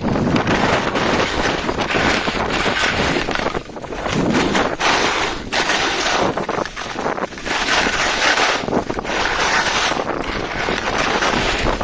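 Skis scraping and carving over the snow of a piste, swelling and easing every second or two with each turn, with wind rushing over the microphone.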